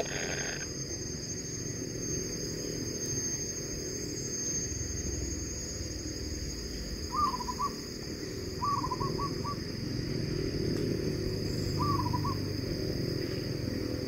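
Kingfisher nestlings in a tree-hole nest giving short quavering begging calls, three times: about seven seconds in, at nine seconds, and near twelve seconds. A steady high-pitched drone and a low rumble run underneath.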